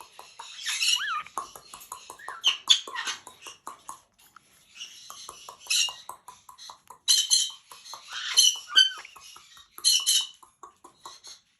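Caique parrot making high, squeaky chirps and chatter in short bouts, some calls sliding up and down in pitch, over a run of small rapid clicks while it plays at nibbling and licking fingers.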